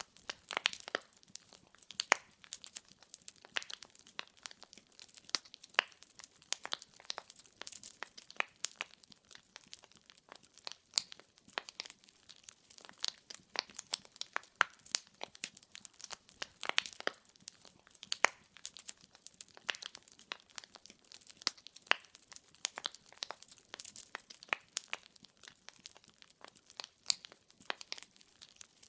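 Wood logs burning in a fireplace, crackling with many small irregular pops and snaps over a faint hiss, a few pops standing out sharply.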